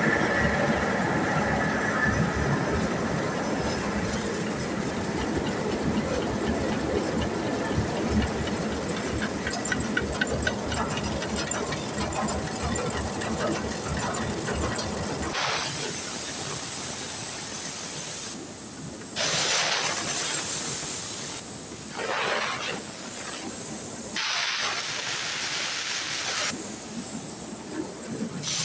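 A high-pressure cleaning jet hissing against the combine, steady with a low rumble under it at first. From about halfway through it goes in on-off bursts, as the trigger is pulled and released.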